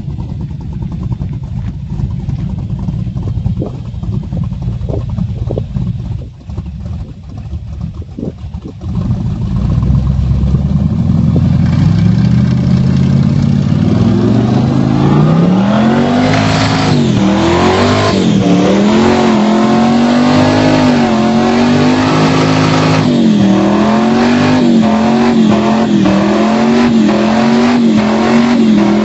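Muffled Holden 253 V8 in a burnout car idling with an uneven rumble, then revved up about ten seconds in and held at high revs for a burnout. The engine pitch wavers up and down while it is held high.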